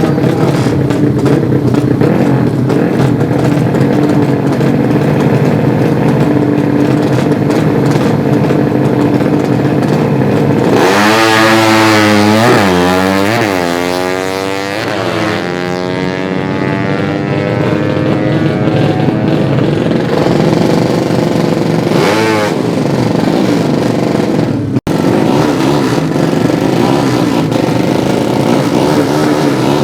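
Racing 200cc underbone motorcycle engines running loud and continuous. About eleven seconds in, one engine revs hard, its pitch sweeping up and down several times over a few seconds, and another short sweep follows about ten seconds later.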